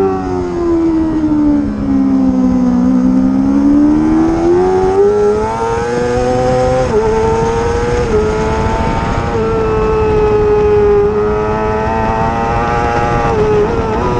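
Racing motorcycle engine running hard: the engine note falls as it slows, about two to three seconds in, then climbs back up. It holds high with brief drops in pitch at gear changes around the middle and near the end.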